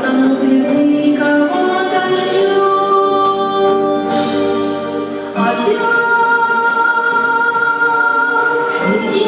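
Two women singing a slow song in duet, holding long notes and changing to a new note about five seconds in, over instrumental accompaniment with a steady ticking beat about twice a second.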